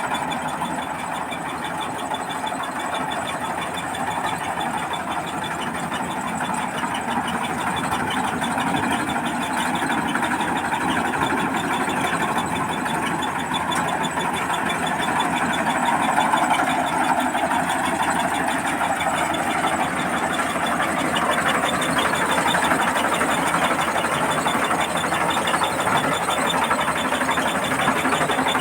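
Combine harvester running steadily while harvesting rice, its engine and threshing machinery giving a continuous mechanical drone that grows a little louder after the first few seconds.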